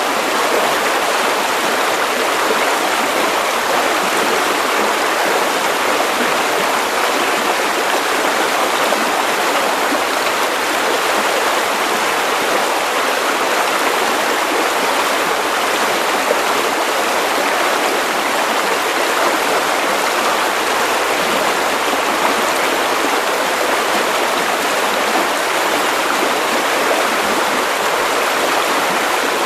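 Steady white noise: an even, unbroken hiss that stays at one level throughout, with little deep bass.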